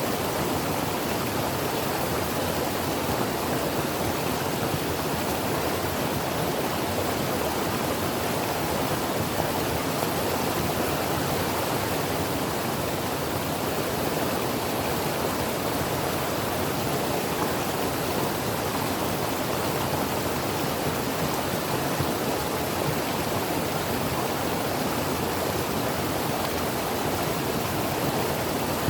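Mountain creek flowing, a steady even rush of water over rocks.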